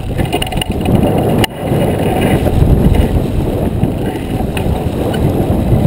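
Wind buffeting the microphone aboard a J24 sailboat under way, a steady low rumble, with one sharp click about a second and a half in.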